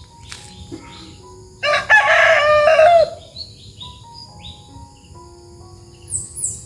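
A rooster crowing once, a call of about a second and a half that drops in pitch at the end. Short high bird chirps follow near the end, over faint background music.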